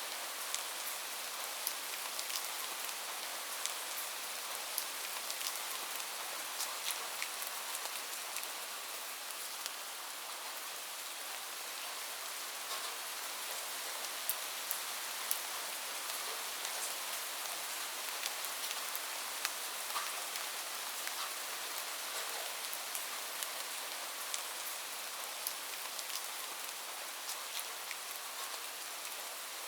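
Steady rain falling on a surface: an even hiss with many distinct drops ticking through it.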